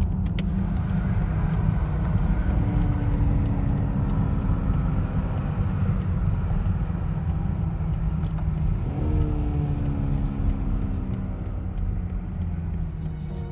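2020 BMW X5 G05 driving: a steady low road-and-engine rumble, with the engine note sliding down in pitch from about three seconds in, then jumping up sharply near nine seconds and easing gradually back down.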